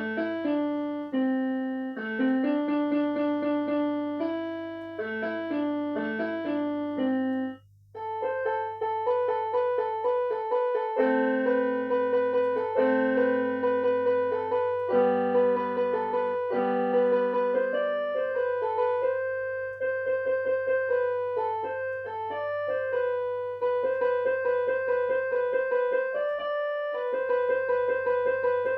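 Piano or electric-piano music: a melody with chords over a held low bass note. It stops briefly about seven and a half seconds in.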